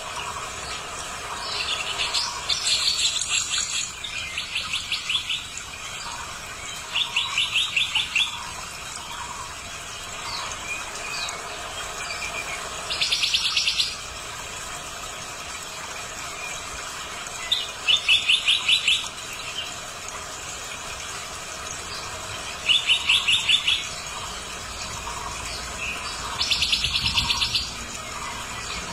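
A bird calling in repeated bursts of rapid, evenly spaced high chattering notes, each burst lasting about a second and coming roughly every four to five seconds.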